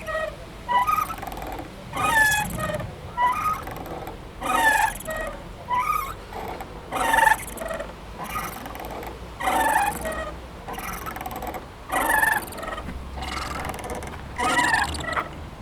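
Playground swing squeaking as it swings back and forth, a short creaking squeal every second or two.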